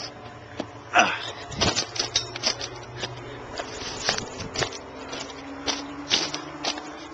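Footsteps and scuffing: an irregular string of sharp clicks and knocks, several a second, the loudest about a second in.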